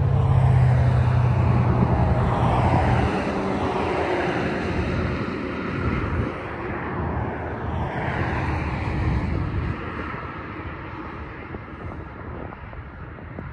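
Freight train passing on the adjacent main track. The diesel locomotives give a strong low drone that drops away about three seconds in, followed by a broad rumble of rolling cars that slowly fades.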